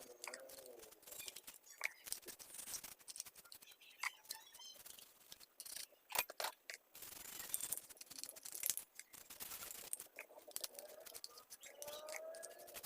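Quick, irregular clicks, taps and light scrapes from handling the mini chainsaw's parts and cleaning tools, played sped up.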